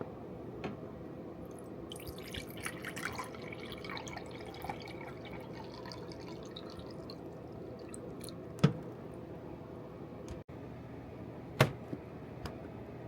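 Kitchen prep sounds: light clinking and tapping of utensils and dishes, then two sharp knocks about three seconds apart, over a steady low hum.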